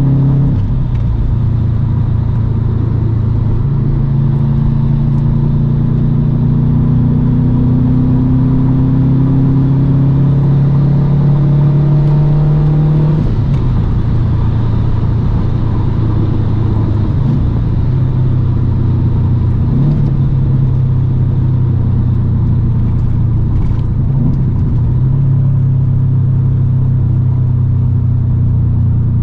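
2008 Subaru Impreza WRX STI's turbocharged 2.5-litre flat-four running through a full Invidia exhaust (catted downpipe and N1 exhaust). Its pitch climbs slowly under acceleration for about twelve seconds, drops sharply, then holds a fairly steady cruise with a few brief dips.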